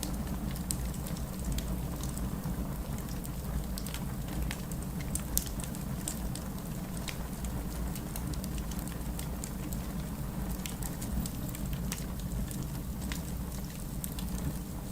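Steady rain with a low rushing rumble, mixed with a wood fire crackling: scattered sharp pops and snaps throughout, one louder pop about five seconds in.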